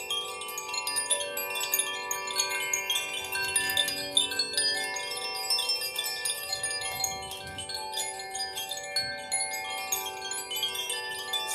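Wind chimes ringing without pause: many overlapping, lingering tones with a continual light tinkle of new strikes.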